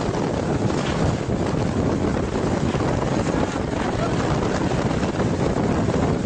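Strong wind blowing hard and buffeting the microphone, a dense, steady rush with no let-up.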